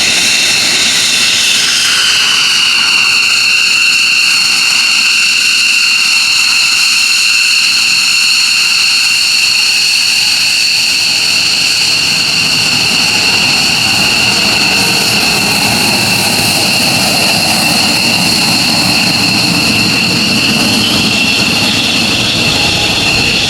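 F-15J Eagle fighter's turbofan engines running with a loud, steady high-pitched whine over a rushing roar. The whine drops a little in pitch about two seconds in, then holds steady.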